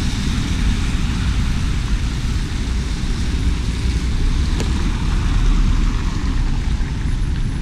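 Steady outdoor noise in light rain: a low rumble under an even hiss, with one short click about halfway through.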